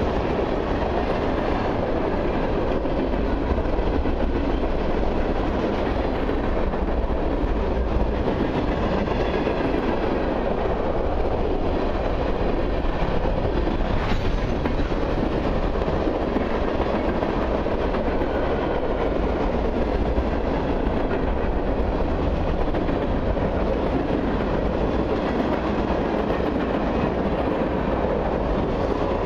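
Freight cars of a long mixed train rolling past at close range: a steady rumble of steel wheels on rail with clickety-clack over the rail joints, running on without let-up as coil cars, tank cars and centerbeam flatcars go by.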